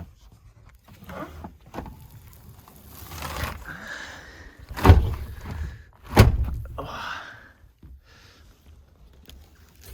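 Thumps and rustling of someone moving about and handling gear inside a truck-bed camper, with two loud thumps about five and six seconds in.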